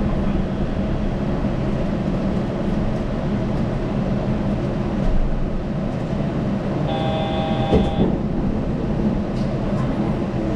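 Yurikamome rubber-tyred automated guideway train running, a steady low rumble heard from inside the car. About seven seconds in, a short electronic tone sounds for about a second, with a single knock near its end.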